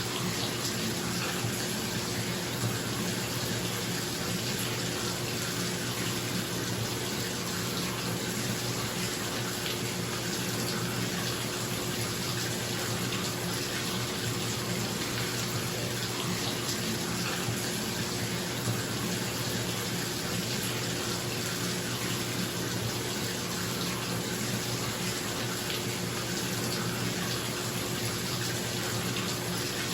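Tap water pouring steadily into a filling bathtub, with a bathroom exhaust fan humming underneath at a constant low pitch.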